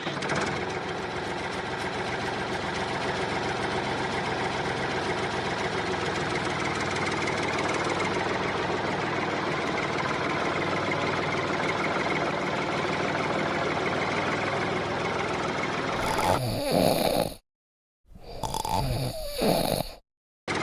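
Tractor engine running steadily. About three seconds before the end it breaks off into two short, louder bursts of engine sound, each cut off sharply.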